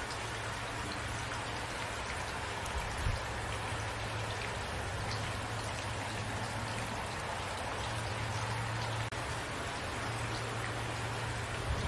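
Steady rain falling at night, an even hiss of drops with a couple of louder single drops, one about three seconds in and one near the end. A low steady hum runs underneath.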